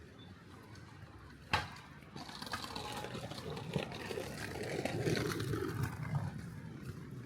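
A vehicle passing on a wet road, its tyre hiss swelling and then fading, after a single sharp knock about one and a half seconds in.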